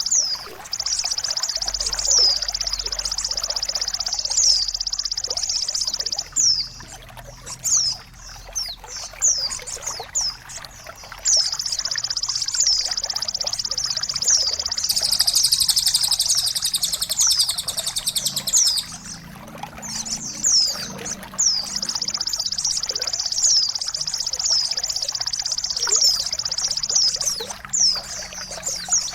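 Songbird song of the kind played to train and stimulate caged birds: long, high, fast trills broken by quick downward-sliding chirps, over a faint trickle of water. The trill pauses twice, once about six seconds in and again around twenty seconds.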